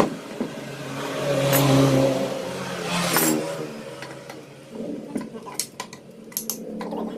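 A passing vehicle engine revving up and fading, followed over the last couple of seconds by a run of sharp, light metallic clicks of tools on engine parts.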